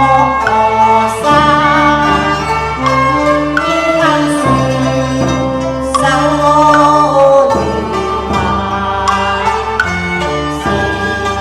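Cantonese opera song: a sung vocal line with bowed-string accompaniment.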